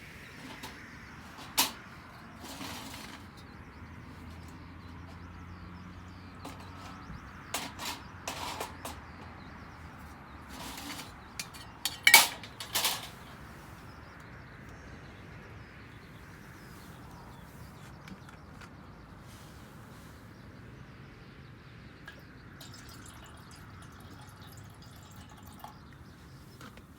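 A few sharp clinks and knocks of camp cookware and utensils being handled, the loudest about twelve seconds in, over a low steady hiss.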